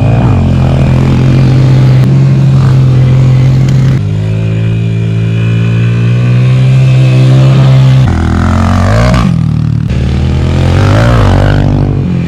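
Dirt bike engines running on a motocross track: a steady engine note throughout, with revs rising and falling as a bike rides past about two-thirds of the way in and again near the end.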